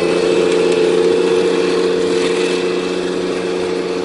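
Heavy diesel engine of construction equipment running steadily at a constant speed, loud and close.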